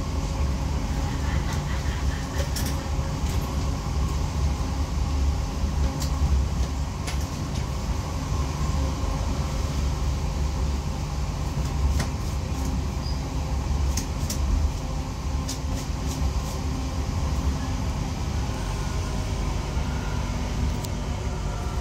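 Cabin sound of a Class 323 electric multiple unit on the move: a steady low rumble from the wheels and running gear with a faint hum above it, and scattered sharp clicks and rattles.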